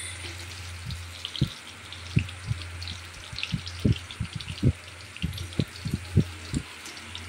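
Paneer cubes sizzling and crackling in a little butter and oil in a metal kadai, lightly fried rather than deep-fried. A steel spatula scrapes and knocks against the pan with scattered short thuds as the cubes are lifted out onto a steel plate.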